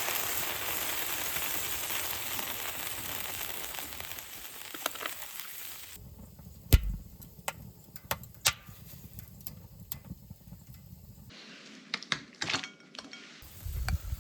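Food sizzling in a cast-iron cauldron lid over a wood fire, a steady hiss that slowly fades. It then breaks off into quieter scattered sharp clicks and knocks.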